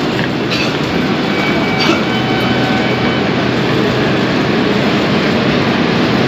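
Passenger train hauled by an Indian Railways electric locomotive rolling through a station, a steady rumble of wheels on track. There are a couple of faint clicks early on, and a thin, faint high whine around two seconds in that lasts about a second.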